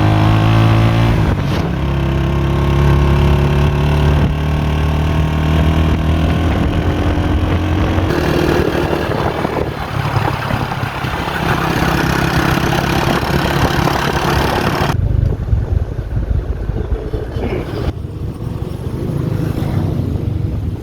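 A motor vehicle's engine running while driving, its pitch rising and shifting as it changes speed, with road noise. About three-quarters of the way in the higher rush drops away, as if the vehicle slows.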